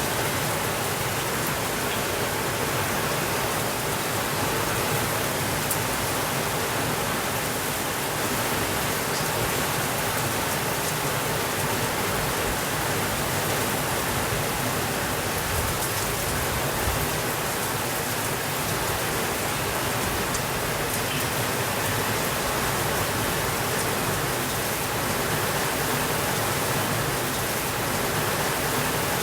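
Steady rainfall, an even hiss that does not change, with a few faint ticks now and then.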